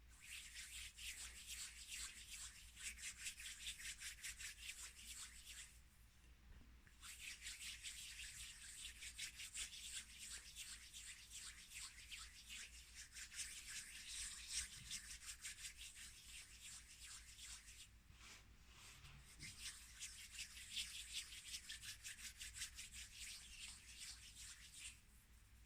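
Close-miked rubbing for ASMR, fast and scratchy, made by hands or a towel. It comes in three long stretches, with short pauses about six seconds in and again near eighteen seconds.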